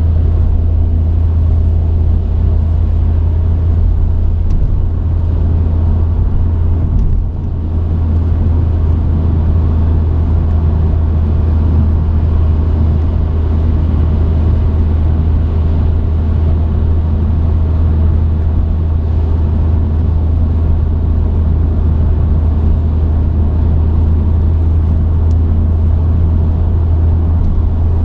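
Truck engine and road noise while driving: a steady low drone that dips briefly about seven seconds in.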